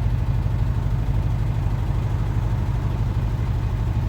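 Diesel engine of a PAZ-4234-05 bus running steadily, a deep even throb heard from inside the bus.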